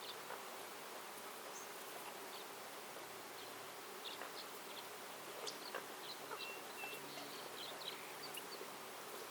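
Outdoor forest ambience: a buzzing insect droning low and wavering, with scattered short bird chirps and ticks over a steady hiss.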